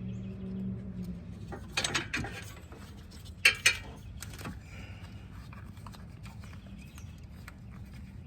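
Small metal pick clicking and scraping against an AC line fitting while prying out an old O-ring, in two short bursts of sharp clicks about two seconds and three and a half seconds in, with lighter ticks between, over a faint steady low hum.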